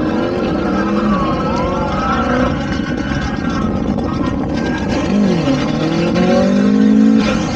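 Several car engines running at once, their pitches rising and falling and crossing as they rev.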